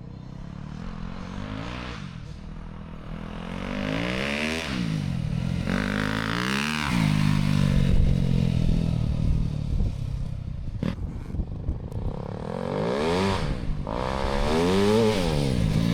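Dirt bike engine revving hard as it accelerates down the road, its pitch climbing and then dropping at each gear change, twice in the first seven seconds and again near the end.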